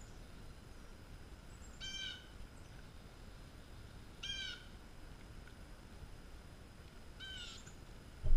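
A bird calling three times, short calls spaced about two to three seconds apart, over a faint steady low rumble.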